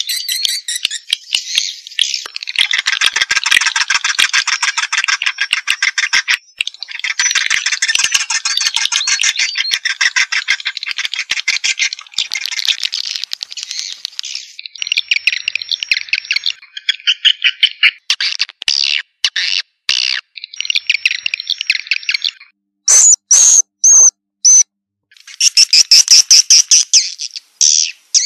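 Swiftlet lure call: many swiftlets twittering in fast, buzzy, clicking trills that come in long dense runs with brief breaks. Near the end, a few separate loud chirps stand out before the dense chatter returns.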